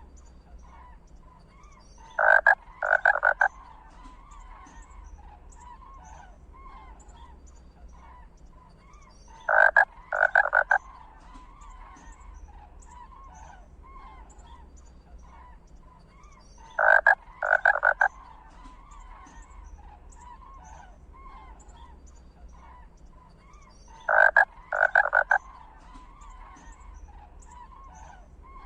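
Loud animal calls, each a burst of three short calls, repeating about every seven seconds over a steady background of faint small calls.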